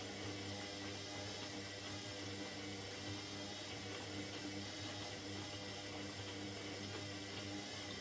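Indesit 71252 washing machine running with a steady hum and a soft noisy wash, even in level throughout.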